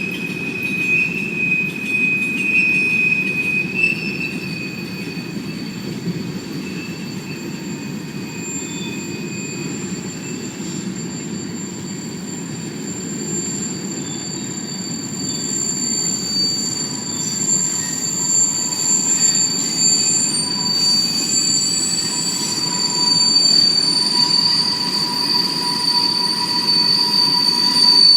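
CSX freight train rolling past with a steady rumble of wheels on rail, overlaid by high-pitched wheel squeal. The squeal changes pitch and grows louder in the second half.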